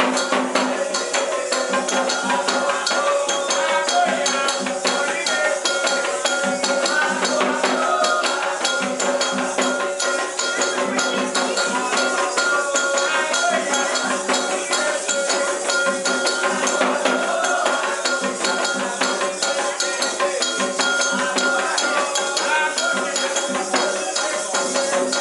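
Live ritual percussion music with a fast, continuous shaken-rattle pattern over steady sustained tones, without a break.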